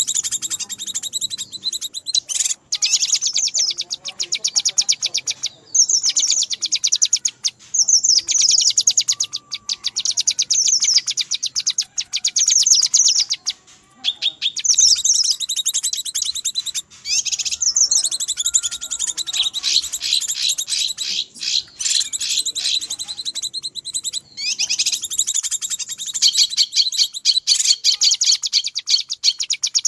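Cucak kinoi bird calling in an agitated, busy lure recording: long bouts of very rapid, high-pitched chattering notes, broken by brief pauses. This is the 'ribut' (agitated) call used to lure wild kinoi.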